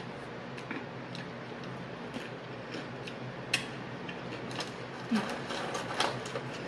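Close-miked chewing of a mouthful of nacho chips: irregular small crunches and wet mouth clicks, one sharper crunch about three and a half seconds in, over a low steady hum.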